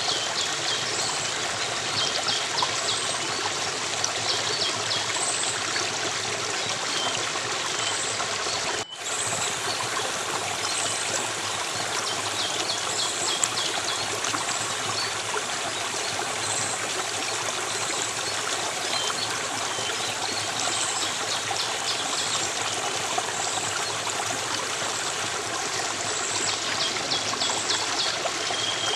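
Stream of water running and trickling steadily, with faint short high chirps of small birds now and then. The water cuts out for an instant about nine seconds in.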